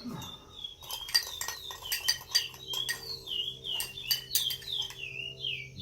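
Rapid light clinks of metal cutlery against a dish, while a bird sings a run of short descending whistled notes, about three a second.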